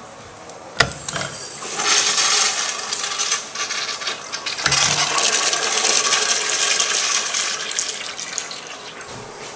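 A toilet flushing: a click of the handle, then rushing water swirling down the bowl, with a second click partway through, before the water tapers off near the end.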